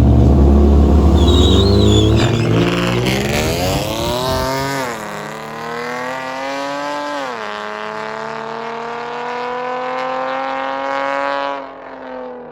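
A car engine launching hard from close by and accelerating away at full throttle. Its pitch climbs through the gears, with upshifts about five and seven seconds in, and the sound grows quieter as the car pulls away, dropping off near the end.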